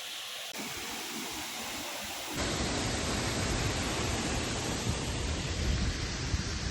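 Waterfall rushing as a steady, even noise; about two and a half seconds in it jumps louder and deeper.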